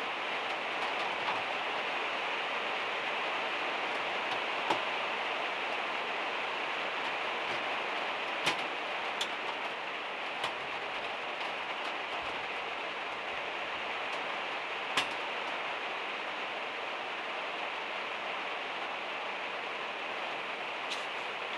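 Heavy rain drumming steadily on the van's metal roof, with a few louder single drop taps.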